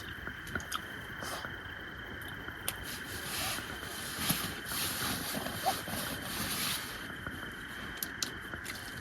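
Crickets chirring steadily, with scattered small clicks and rustles from someone eating close by, and a few louder rustling swells in the middle.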